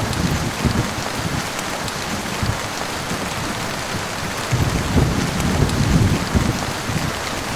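Heavy rain falling steadily, with low rumbles of thunder: one at the start and a longer one swelling about four and a half seconds in and lasting about two seconds.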